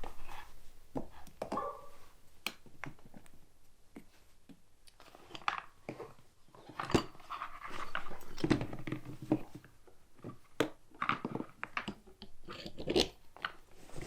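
Irregular knocks, clicks and scrapes of parts being handled and fitted together as a pressure washer's frame is set back in place over its motor.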